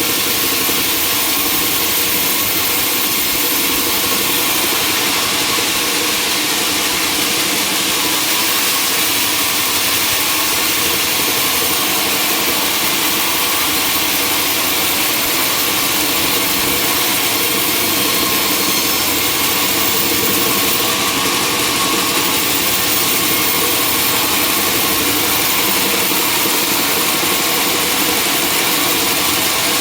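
Sawmill machinery running steadily: a loud, continuous engine-and-saw noise with no breaks.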